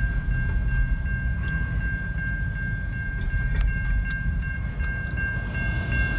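Double-stack container freight train rolling past at a grade crossing: a steady low rumble of the cars, heard from inside a car, with a thin high ringing tone held over it.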